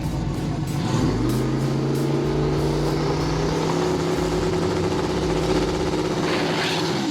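Ford Mustang drag cars at full throttle on a street drag run: a rough low rumble, then from about a second in a steady, sustained engine note that rises slightly and holds, cutting off suddenly at the end.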